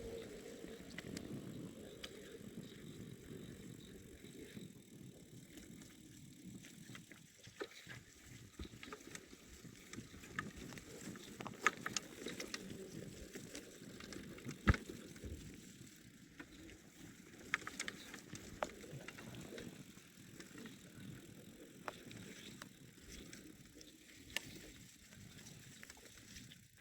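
Bicycle riding along a forest track: a steady low rumble of the tyres rolling, with scattered sharp clicks and knocks.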